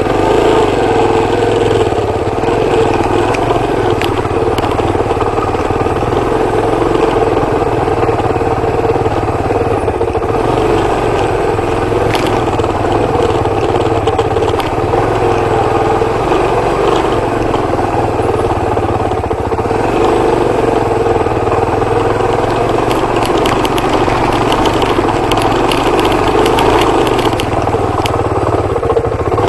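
Suzuki DR250R dirt bike's single-cylinder four-stroke engine running steadily under way, its pitch holding fairly even.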